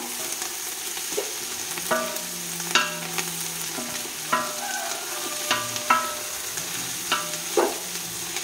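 Onions with fresh mint and coriander leaves sizzling in oil in a large non-stick pot, stirred with a wooden spatula that knocks the pot about once a second with a short ringing clank. This is the sauté stage of a biryani masala.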